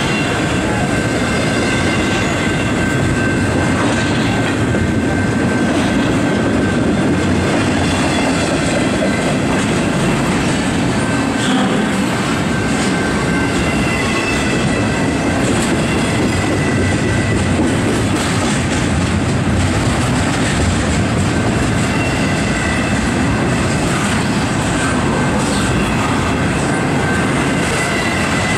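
Double-stack intermodal freight cars rolling past close by: a steady, loud rumble of steel wheels on rail with clickety-clack over the rail joints. A few faint high-pitched tones drift in and out above the rumble.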